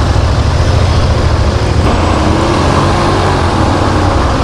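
Motorcycle engine running at low speed with a steady, loud low rumble, its pitch rising and falling a little about halfway through.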